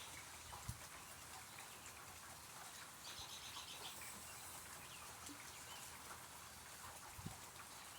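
Light rain falling, a faint steady hiss, with a bird giving a short rapid series of chirps about three seconds in. Two soft thumps, one near the start and one near the end.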